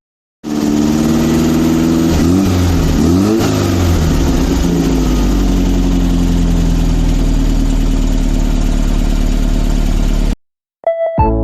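1971 Volkswagen Beetle's air-cooled flat-four engine running after being revived from storage: revved up twice about two to three seconds in, then settling to a steady idle. The sound cuts off abruptly near the end.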